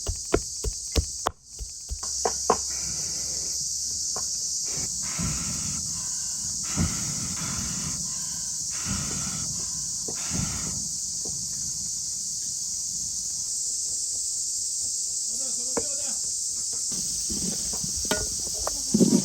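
Steady, high-pitched chorus of insects. A quick run of sharp knocks or clicks sounds over it in the first two seconds.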